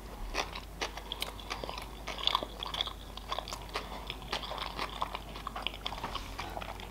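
Close-miked chewing of a mouthful of sushi roll: many small, irregular mouth clicks and smacks, several a second.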